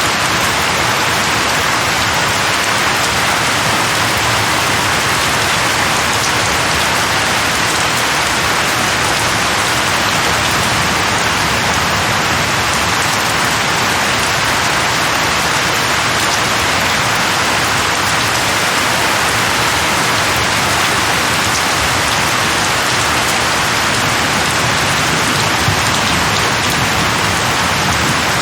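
Steady rain falling on a surface, a continuous even hiss of drops with no pauses or changes in strength.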